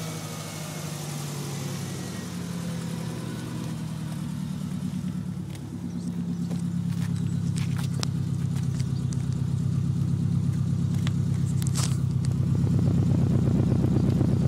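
Subaru Impreza's flat-four boxer engine idling steadily just after a remote start with no one in the car. It grows louder about halfway through and again near the end.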